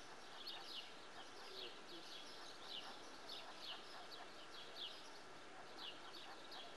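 Small birds chirping, short high chirps about twice a second at irregular spacing, over a faint steady hiss.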